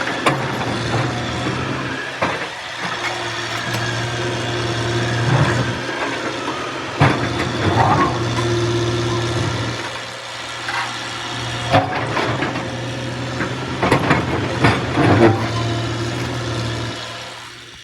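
A heavy diesel engine running steadily, with scattered knocks and clanks over it.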